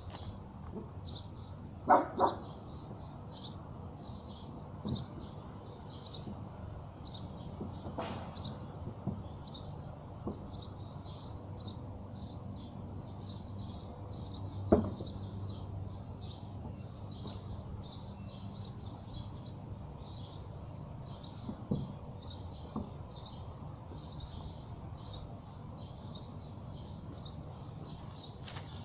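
Small birds chirping continuously, with a dog barking twice about two seconds in. A few faint knocks come later.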